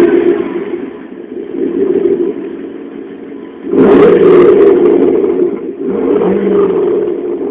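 1997 Infiniti Q45's V8 exhaust with the rear muffler deleted, revved in several blips and dropping back between them. The biggest rev comes about four seconds in.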